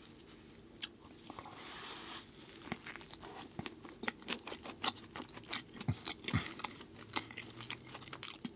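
Close-miked chewing of a mouthful of Impossible Burger: irregular wet mouth clicks and soft crunches.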